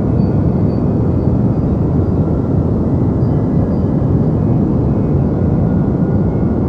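Deep white noise for sleep: a steady, even rush that is heavy in the low end and dull at the top, with no change in level.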